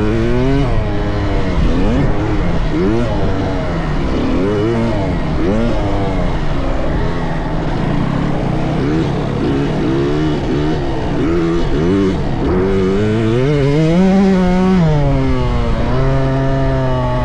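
Several motocross dirt-bike engines revving up and down in overlapping waves, their pitch rising and falling every second or so. Near the end one engine climbs, holds a higher pitch briefly, then drops back to a steady lower note.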